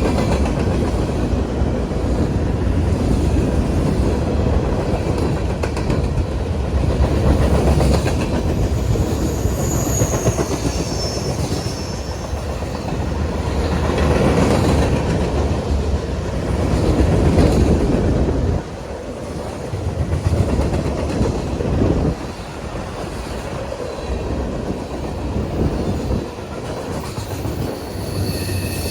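CSX freight train's cars rolling past, wheels clicking over the rail joints, with high wheel squeals at times.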